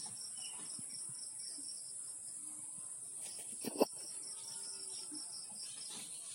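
Insects chirring steadily in a high continuous hum with a second, evenly pulsing chirp underneath, with one sharp click a little under four seconds in.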